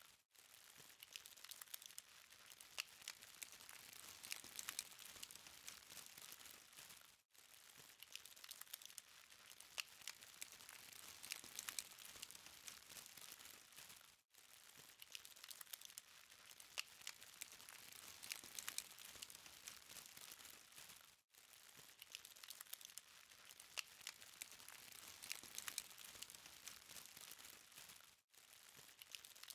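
Charcoal fire crackling faintly: a soft hiss dotted with many small pops and ticks. The sound drops out for a moment about every seven seconds.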